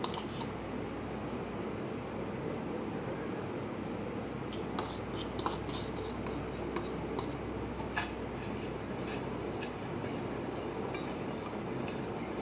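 A spoon scraping and tapping against a pan while mixing milk and sugar, scattered clinks over a steady background hiss.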